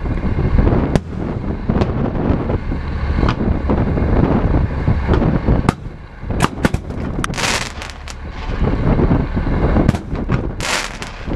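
Fireworks display: a rapid series of sharp bangs from bursting shells over a deep, continuous rumble, with two short bursts of crackling hiss about halfway through and near the end.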